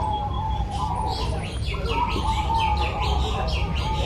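Many zebra doves (perkutut) cooing together, a continuous broken cooing near one pitch. From about a second in, a fast run of high falling chirps, several a second, rides above it over a low rumble.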